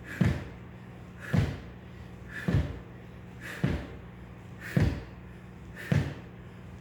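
Six evenly spaced thuds, a little over one a second, over a steady low hum.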